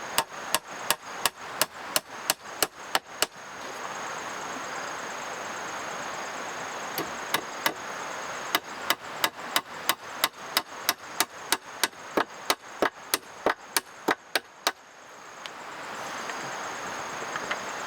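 Rapid, evenly spaced chopping strikes of a hand tool, about three a second, in two runs: one over the first three seconds and another from about seven seconds until near fifteen seconds. Between the runs there is a steady hiss with a thin high tone.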